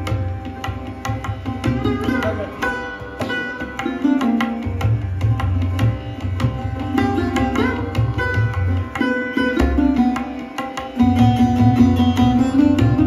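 Sarod played in an Indian classical recital: plucked, sliding melodic notes over rhythmic drum strokes with a deep booming bass. The bass drops out briefly, then the music comes back louder near the end.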